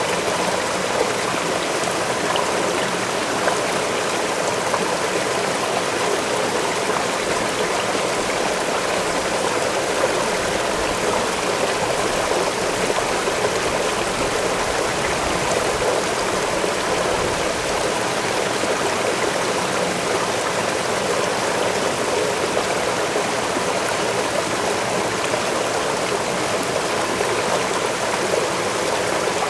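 Waterfall's water falling and rushing steadily, an even, unbroken sound of flowing water.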